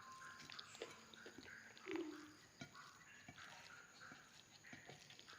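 Faint chewing and biting of a person eating, a run of small quick mouth clicks. A brief louder low sound about two seconds in.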